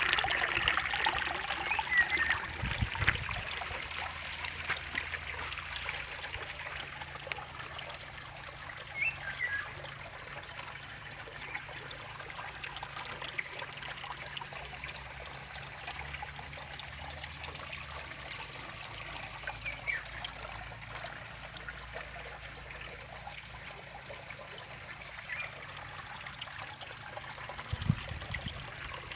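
Spring water trickling and running steadily, with a few short, faint chirps over it and a brief low thump near the end.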